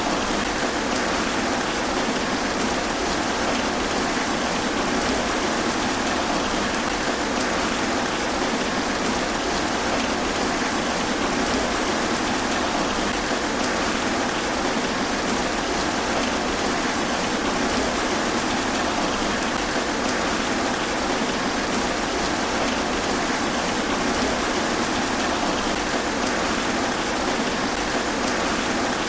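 Steady rain falling through trees and pattering on the leaves, an even, unbroken hiss.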